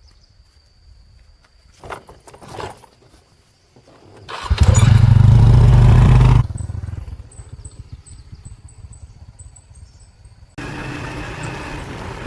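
A small engine, very loud for about two seconds in the middle, then running steadily after an abrupt change near the end.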